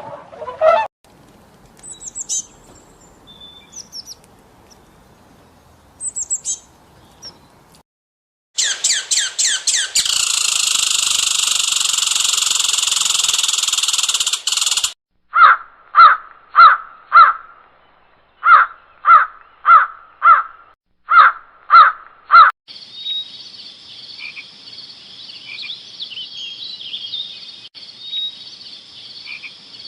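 A sequence of different animal calls: a few faint chirps, then a loud buzzing stretch about a third of the way in, a run of short evenly spaced calls about two a second, and a steady high trill through the last quarter.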